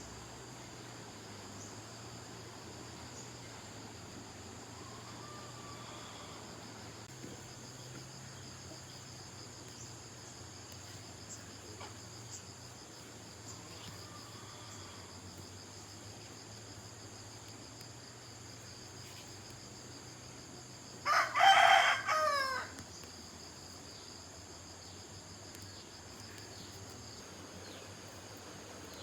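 A rooster crows once, about three-quarters of the way through, over a steady high buzz of insects.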